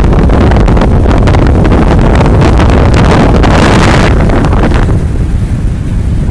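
Strong wind buffeting the microphone in loud, gusty rumbles, its hiss thinning about five seconds in, with beach surf likely mixed beneath it.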